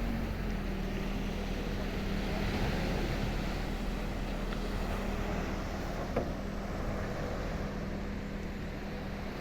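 Steady engine hum, a constant low tone over a rushing noise, with one short knock about six seconds in.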